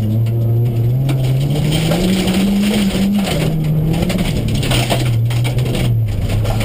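Renault Clio Sport's engine heard from inside the cabin under hard driving on gravel: the revs climb about two seconds in, drop back around four to five seconds in, then hold steady. Loose gravel crunches under the tyres throughout, with a few sharp knocks near the end.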